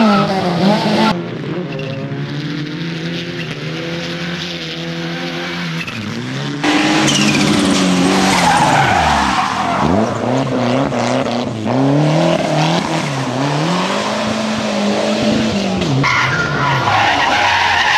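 Rally car engines revving hard, pitch climbing and dropping through gear changes and lifts, with tyres skidding. The sound jumps to a new car about a second in, again near the middle, and once more near the end.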